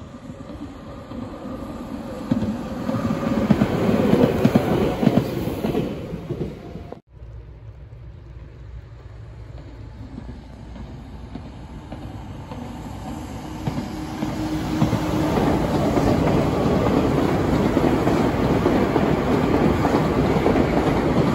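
Meitetsu electric train running on the rails, growing louder as it approaches. The sound breaks off abruptly about seven seconds in. Then a second train approach builds up, loudest near the end as the train passes close by.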